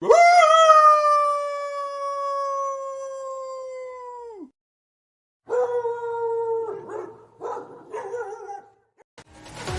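A dog howling: one long howl of about four and a half seconds that holds its pitch, sinks slowly and drops off at the end. After a second's pause comes a second, lower howl that breaks up into several shorter pieces.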